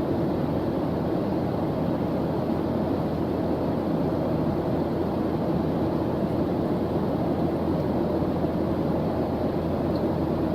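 Steady background white-noise track, heavy in the low range so it sounds like a deep, even rumbling hiss.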